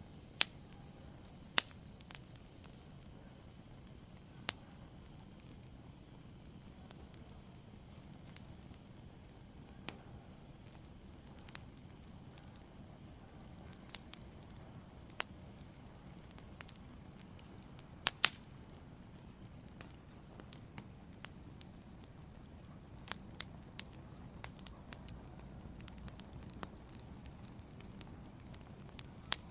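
Wood fire burning in a fireplace, a low steady hiss broken by irregular sharp crackles and pops, the loudest pops at about a second and a half in and again at about eighteen seconds.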